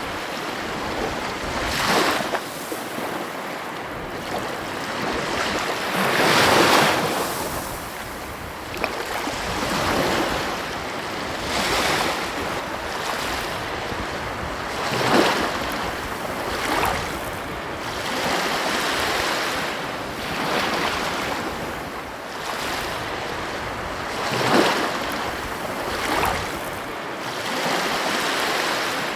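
Ocean waves breaking on a beach: a steady wash of surf that swells into a louder crash every few seconds.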